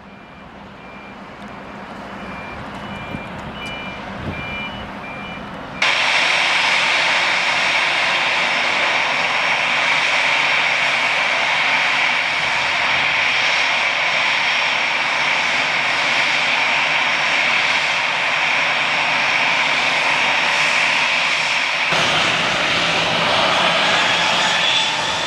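Jet engines of an Airbus airliner at takeoff: a steady rushing noise with a high whine, growing louder over the first seconds, then jumping abruptly louder about six seconds in and holding loud.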